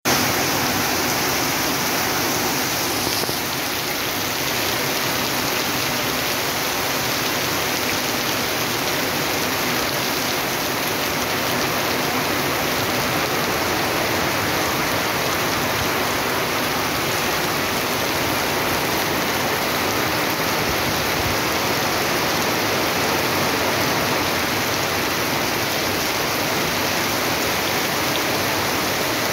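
Heavy rain pouring down steadily, splashing into standing water on paved ground and onto the leaves of trees.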